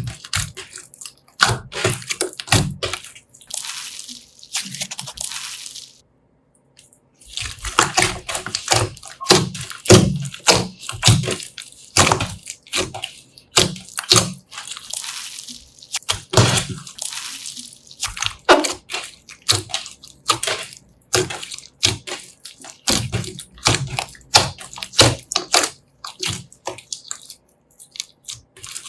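Slime being mixed and squeezed by hand: a dense run of wet squelches and sticky pops and clicks, with a brief pause about six seconds in.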